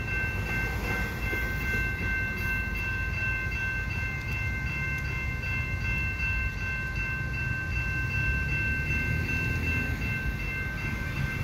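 Bombardier multilevel commuter coaches rumbling past over the level crossing. Over the rumble comes a steady high ringing, held without a break, from the crossing's warning bell.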